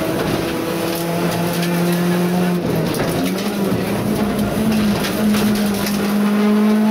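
Rally car engine heard from inside the cockpit, running at high revs under load. Its note shifts with the gears, stepping up about two and a half seconds in and holding high, with road and cabin rattle under it.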